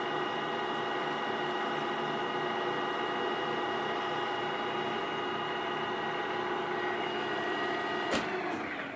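A shop machine's electric motor running steadily with a constant whine. About eight seconds in there is a sharp click, and the machine then winds down.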